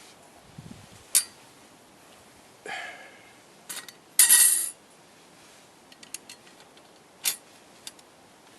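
Light metal parts clinking together: a few sharp clinks and, about four seconds in, the loudest one, a half-second metallic rattle that rings.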